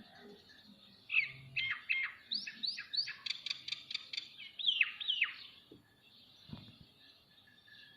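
Ringneck parrot chirping: a quick run of about a dozen short, sweeping calls lasting several seconds, followed by a soft thud.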